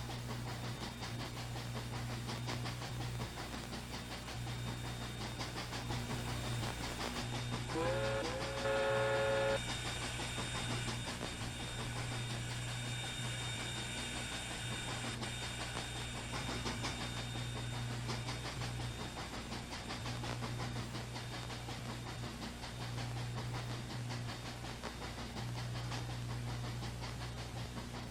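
Pennsylvania Railroad steam locomotives 7002 and 1223 running as a doubleheader, with a steady low rumble. About eight seconds in, a steam whistle sounds once for nearly two seconds, rising in pitch as it opens.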